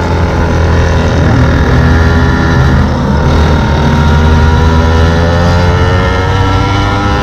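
Small two-stroke stand-up scooter engine running under way, a loud steady buzz whose pitch drifts slowly up and down with the throttle.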